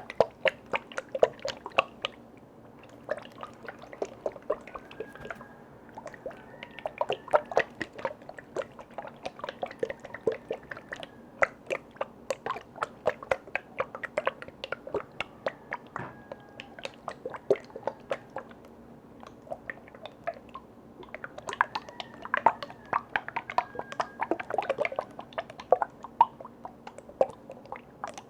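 Rapid, irregular ASMR tapping and clicking on containers and their lids, with some liquid sounds and brief faint ringing from the struck objects.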